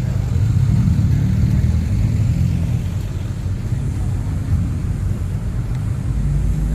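A car engine running with a steady, deep low rumble.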